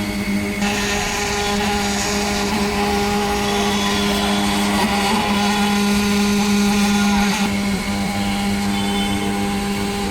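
Concrete-pouring machinery running with a steady, even-pitched motor hum. A rushing hiss joins it from about half a second in until about seven and a half seconds in.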